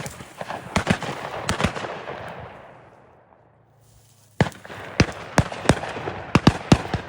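Shotguns firing from several guns at released pheasants, in two flurries of quick, overlapping shots. Each shot rolls and echoes away. There is a lull of about a second and a half in the middle.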